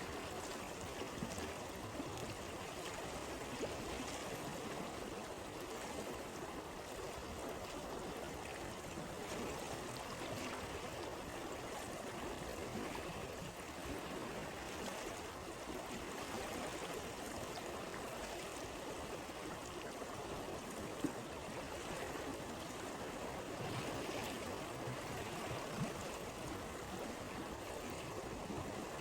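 Steady flowing stream, an even rushing and trickling of water, broken by a few isolated sharp pops, the sharpest about two-thirds of the way through.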